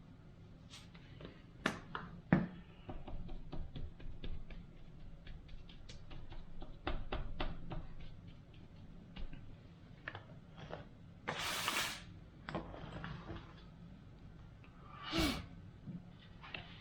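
Seasoning being shaken onto a brisket: quick, irregular light ticks and taps from a shaker, with two sharper knocks about two seconds in and short hissing rustles near 11 and 15 seconds.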